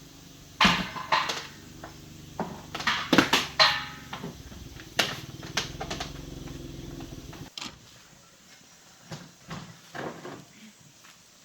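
A steady low mechanical hum with several loud knocks and clatters over it in the first half; the hum cuts off suddenly about two-thirds of the way in, leaving a few faint small knocks.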